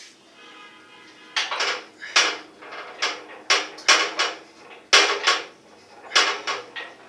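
Metal tools and parts of a gas water heater's burner assembly clinking and knocking together, about a dozen sharp, irregular clinks beginning a little over a second in.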